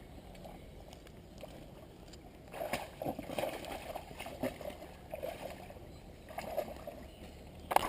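Water splashing and sloshing in a shallow stream in irregular bursts, starting about two and a half seconds in, with a sharp knock near the end.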